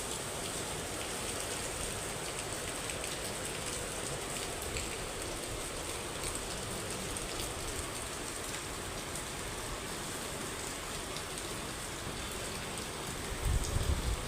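Steady rain falling, an even hiss dotted with small drop taps. Near the end, low rumbling gusts of wind buffet the microphone.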